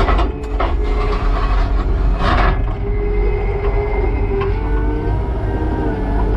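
Skid steer's diesel engine working hard with its hydraulics whining and changing pitch as the forks pry at a concrete slab. A few knocks and scrapes of concrete break in, the loudest about two seconds in.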